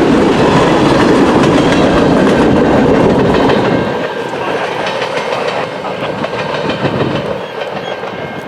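A train passing close by, its wheels clattering over the rails. The noise drops off noticeably about four seconds in.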